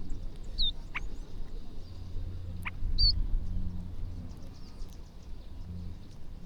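Small birds giving two short, high chirps a couple of seconds apart, with a few sharp clicks, over a steady low rumble.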